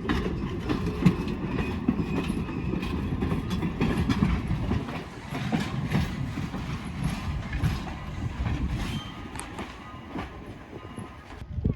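A passing train's wheels clicking rhythmically over the rail joints with a steady rumble, which eases off and grows fainter after about five seconds.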